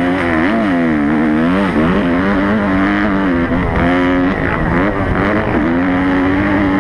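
Motocross bike engine revving hard, its pitch swinging up and down quickly with the throttle and gear changes, then holding steadier and climbing again in the second half.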